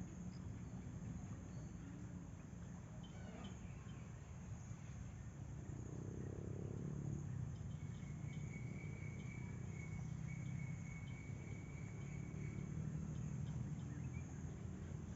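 Insects calling outdoors: a steady high-pitched drone throughout, joined about halfway through by a second, lower continuous trill lasting around five seconds, over a low background rumble.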